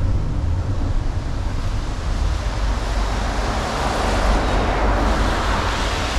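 Road traffic passing on the highway: a steady low rumble, with a vehicle's tyre and engine noise swelling past in the middle and fading away.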